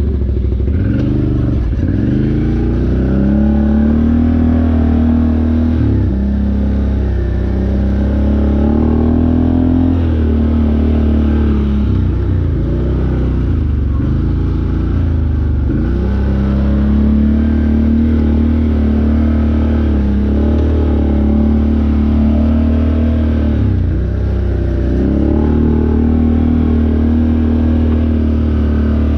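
Off-road vehicle engine running under way on a trail, revving up and easing off again and again, its pitch rising and falling every few seconds.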